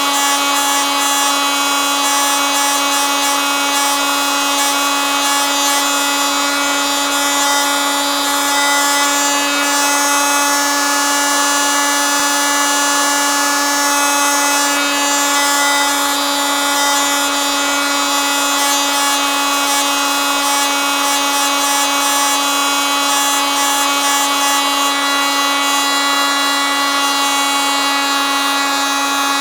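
Oscillating multitool running continuously, a steady, unchanging buzzing whine with many strong overtones.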